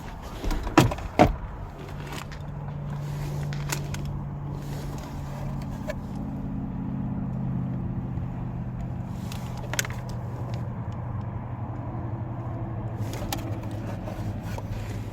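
Two loud knocks about a second in, followed by a steady low hum of an engine or motor running, its pitch wavering slightly.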